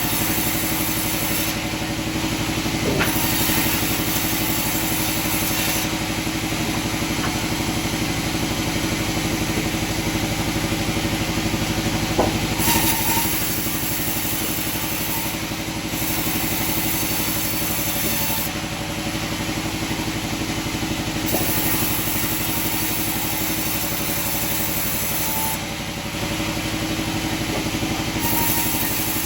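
Sawmill machinery running steadily, a constant motor hum with a held tone.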